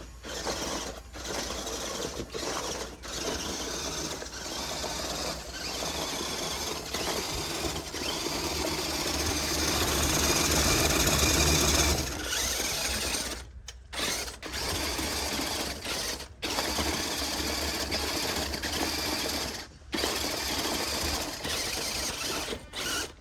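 RC truck's motor and geared drivetrain whirring as it drives over dirt, loudest at about the middle and cutting out abruptly several times in the second half.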